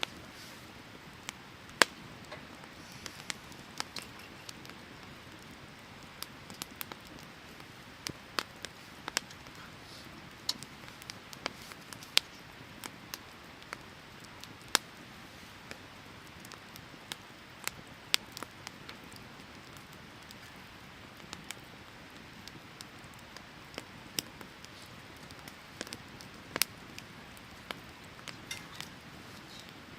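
Firewood burning in a fire pit, crackling with sharp pops at irregular intervals, a few of them loud, over the steady rush of a stream.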